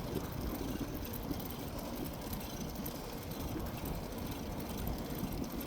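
Wind buffeting the microphone while riding a bike, a steady low rumbling rush with no pauses.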